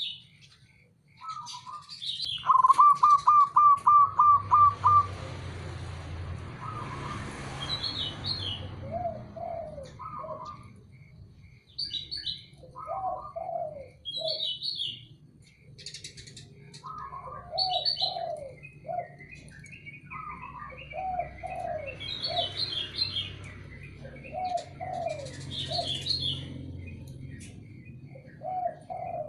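Zebra dove (perkutut) cooing: a loud, fast run of about ten staccato notes early on, then short cooing phrases repeated every second or two. Small birds chirp in high, short notes between the coos.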